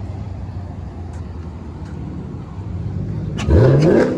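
A car engine idling with a low, steady drone, then revved hard about three and a half seconds in, its pitch climbing quickly and loudly.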